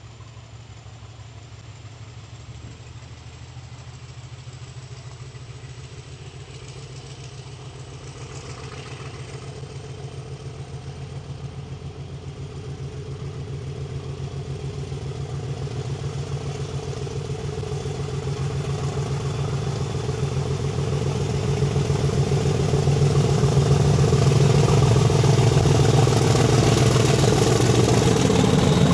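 British Rail Class 50 diesel locomotive, its English Electric 16-cylinder engine working under power as it hauls a passenger train towards the listener. The steady engine note grows louder throughout and is loudest near the end as the locomotive draws alongside.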